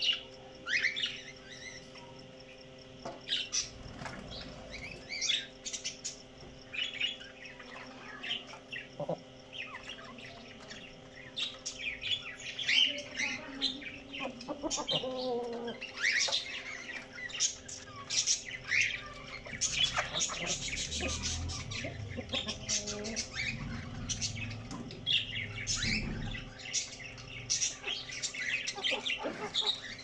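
Birds chirping: many short, high calls, irregular and overlapping, again and again.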